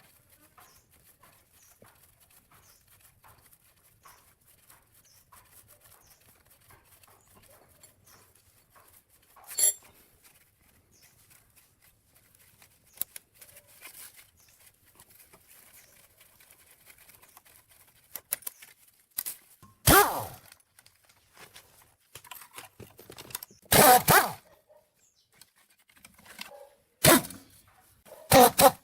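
Hand work on metal machine parts: faint small clicks, one sharp knock about ten seconds in, then a run of loud knocks and scrapes with a little ringing in the last third.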